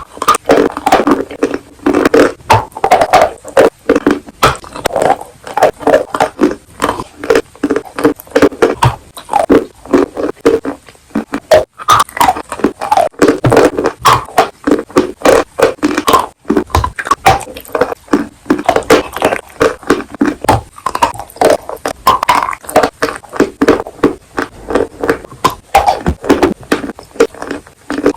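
Close-miked biting and chewing of crunchy chalk and clay: a rapid, continuous run of sharp crunches and crackles with wet mouth sounds between them.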